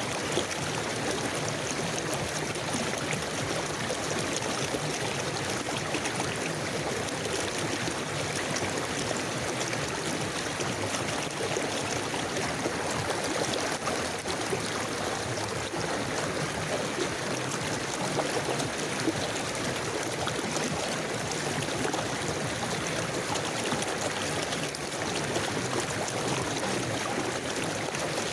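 River water flowing steadily over stones, a constant rushing with small irregular splashes and gurgles.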